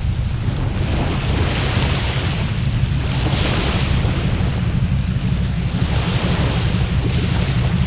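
Wood bonfire burning steadily, a rushing noise that swells and eases every second or two, with wind rumbling on the microphone. A thin, steady high-pitched whine runs under it.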